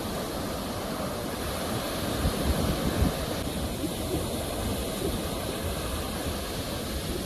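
Ocean surf: a steady wash of breaking waves, with a louder swell of a wave about two to three seconds in.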